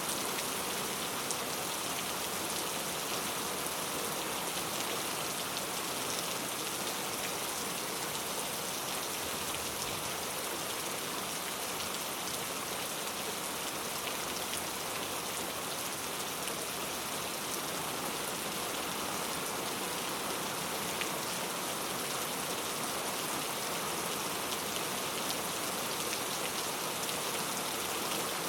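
Steady heavy rain falling, an even hiss with fine scattered drop patter.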